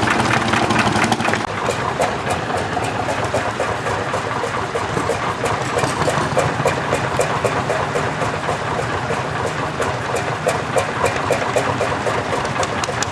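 Single-cylinder two-stroke hot-bulb tractor engines running at idle with a steady, rapid knock. A louder engine close by drops away about a second in.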